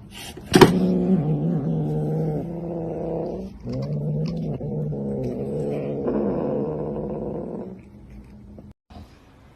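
A cat growling in two long, low, drawn-out growls. The first starts sharply about half a second in, and the second trails off near the end.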